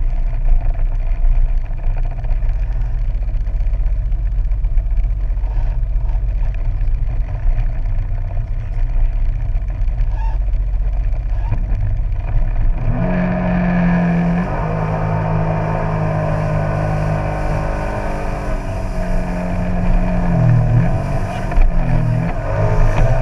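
Steady low rumble of wind and water, then a little over halfway through a motor's note comes in, rises briefly and runs on steadily, shifting pitch a couple of times near the end.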